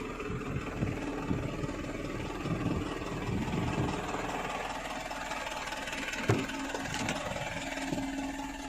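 Truck engine running steadily at idle, with a single sharp knock about six seconds in.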